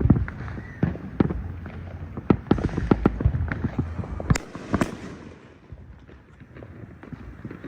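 Fireworks and firecrackers going off in a rapid, irregular crackle of pops and bangs, with two sharper, louder cracks near the middle. The popping thins out over the last couple of seconds.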